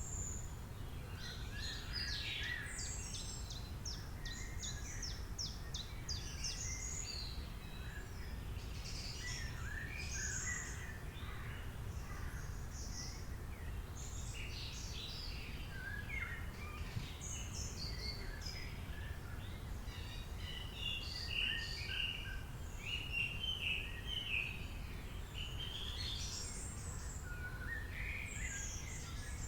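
A chorus of many birds chirping and trilling, with calls overlapping throughout and busiest about two-thirds of the way through, over a steady low rumble.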